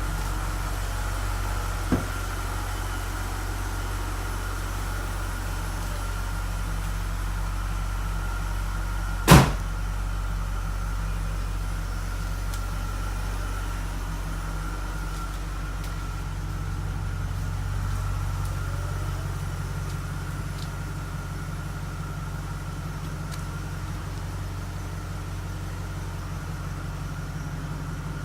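BMW Alpina B5's supercharged V8 idling steadily through its stock exhaust, with a steady high whine over the low engine hum. A small knock about two seconds in and a loud sharp knock about nine seconds in.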